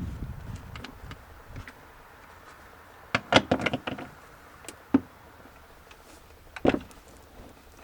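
Scattered clicks and knocks of hard objects being handled: a quick cluster about three seconds in, then single knocks near five and seven seconds. No engine is running.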